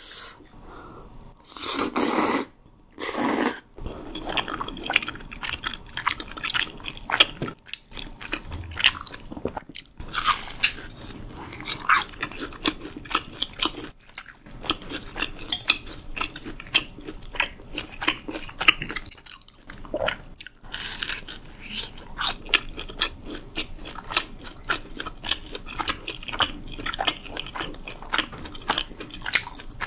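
Close-miked mouth sounds of eating: a couple of loud crunching bites near the start, then steady chewing with crackly crunches.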